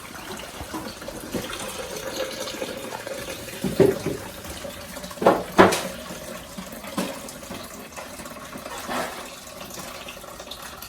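Water pouring into the espresso machine's removable plastic water tank, with a few knocks of the plastic tank being handled about four and five and a half seconds in.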